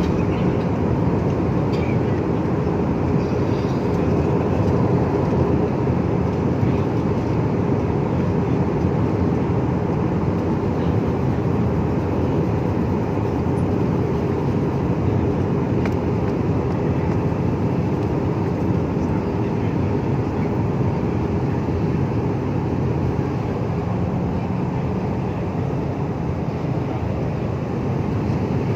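Steady drone of an airliner's cabin in cruise flight: an even rush of engine and airflow noise with a low, constant hum.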